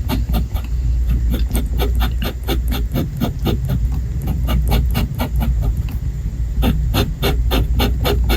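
Fountain pen nib scratching on paper in quick short strokes, about four to five a second, as in hatching.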